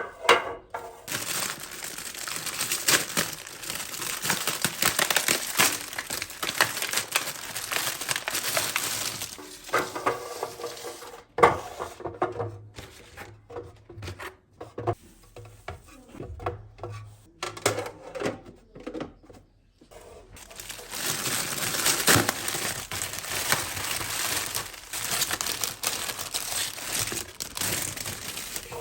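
Crinkling and rustling of something being handled, in two long stretches, with scattered clicks and knocks between them.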